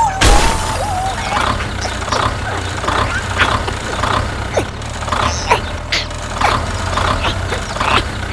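A small motor running with a steady low hum, with short high chirps about twice a second over it and a brief loud rush of noise just after the start.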